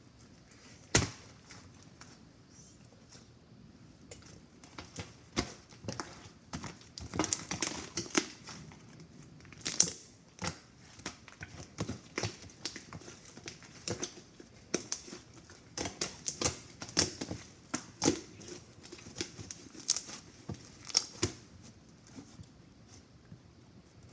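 Slime being squished and stretched by hand, giving off irregular small pops and clicks. The pops come thick and fast through the middle and thin out near the end.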